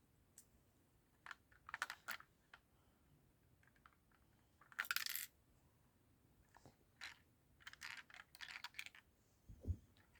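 Plastic Lego pieces clicking and rattling as a broken Lego car model is handled and its parts fitted together, in scattered short bursts, with the loudest clatter about halfway through and a dull thump near the end.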